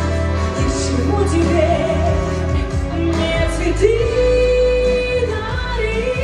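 Music: a woman singing a slow melody with long held notes over a pop backing track with a steady bass.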